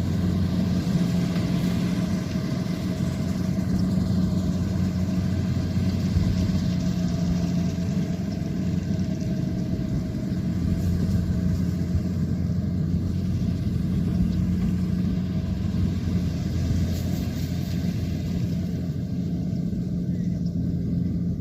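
Kubota combine harvester's diesel engine running at a steady speed: a constant low hum.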